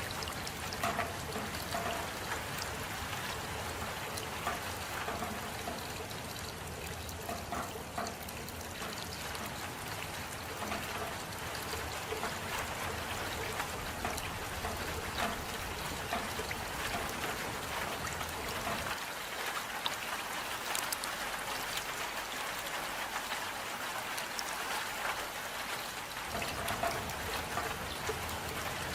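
Steady rain falling, with many separate drops heard close by.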